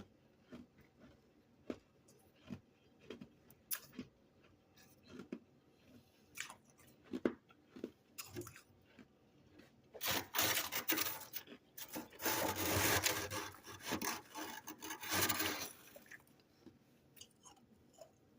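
Freezer frost crunching: scattered small crackles and snaps, then about six seconds of dense, loud crunching from about ten seconds in.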